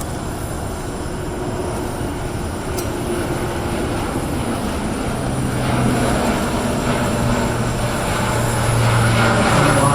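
Airbus A400M's four Europrop TP400 turboprop engines and propellers with a steady low hum, growing louder as the aircraft approaches.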